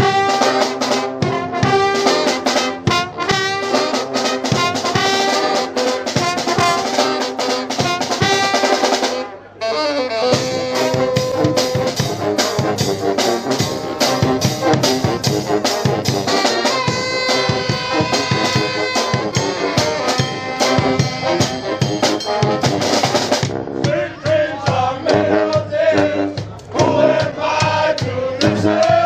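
Brass band playing live: trumpets and trombones over a drum kit, with a brief break about a third of the way through.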